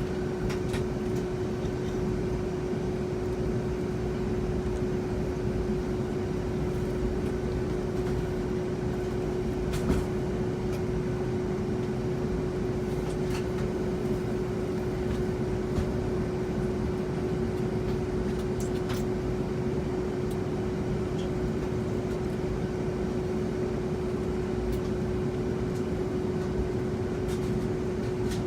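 Boeing 757-200 cabin noise while taxiing or holding short before takeoff: a steady rumble and air rush with one constant hum from the idling engines and air system, unchanging throughout, with a few faint clicks.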